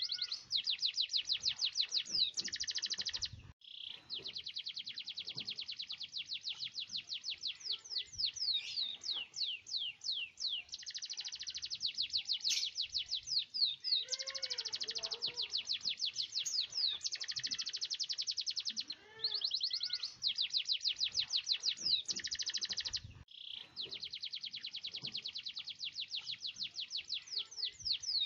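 Domestic canary singing in long rolls: rapid trills of repeated high notes, some packed tight and buzzy, others slower falling sweeps, with brief breaks about three and a half seconds in and again near twenty-three seconds.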